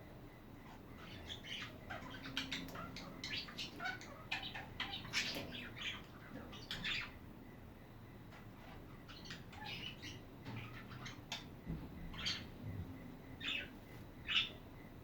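Pet budgerigars chirping and chattering: many short, quick chirps in bunches, with a few louder single chirps near the end.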